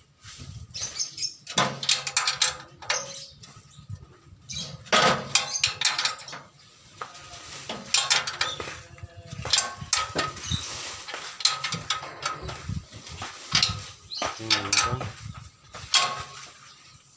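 Irregular metallic clinks and knocks of hand tools and metal parts being handled, with a few louder strikes.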